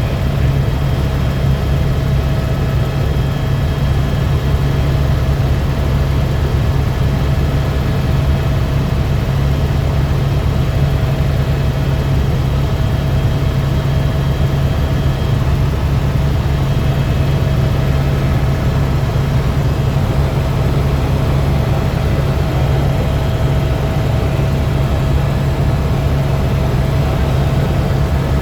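Helicopter in flight: a loud, steady engine and rotor drone with a few thin, steady whining tones above it.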